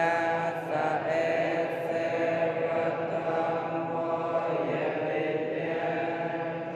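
Droning, chant-like voices or music, with several pitches held steadily; the pitch wavers briefly near the start.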